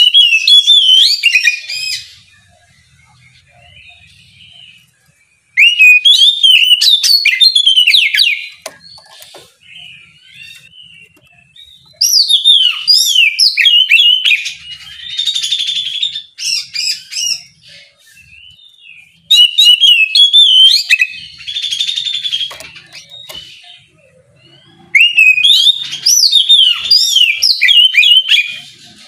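Oriental magpie-robin (kacer) singing in the loud, open 'ngeplong' style used to provoke rival birds: five bursts of whistled phrases and rapid trills, each one to five seconds long, with short pauses between them.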